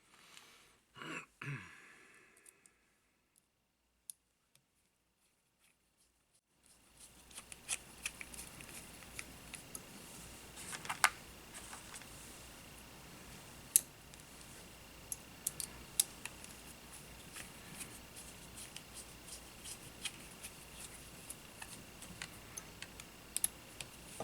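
Small tools and parts handled on a workbench: scattered light clicks and taps, a few sharper ones, over a faint steady high hum. About a second in there is a brief falling sweep, then a few seconds of near silence before the handling starts.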